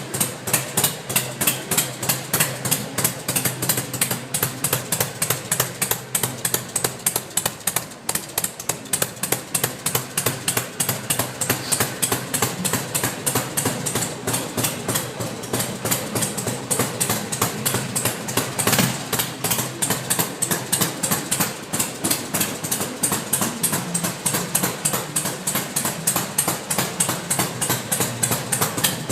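Harley-Davidson Sportster 1200 Roadster's air-cooled V-twin idling, its exhaust giving an even, rapid train of sharp pulses.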